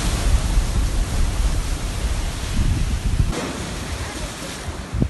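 Sea surf: a steady rushing wash of waves, with a heavy low rumble of wind on the microphone that drops away about three seconds in.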